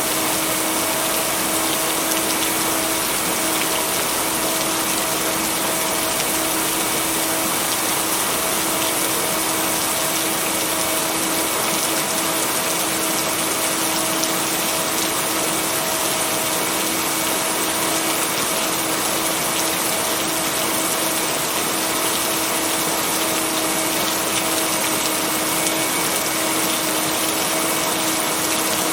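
Steady rain, an even hiss with no breaks, with a steady low hum-like tone running underneath it; no thunder claps.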